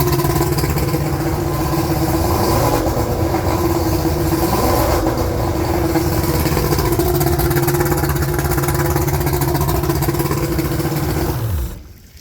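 1992 Mercury 200 XRi 2.5-litre two-stroke V6 outboard running steadily, its speed rising and falling briefly a few seconds in, then shut off near the end and winding down. The owner says this engine idles too high.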